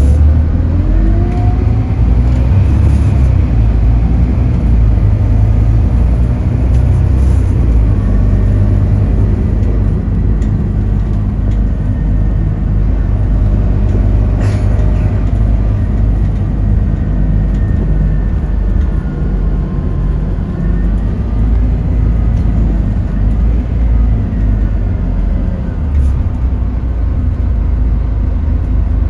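Scania K280UB bus's diesel engine running steadily under way, with a whine that rises in pitch in the first few seconds as it gathers speed.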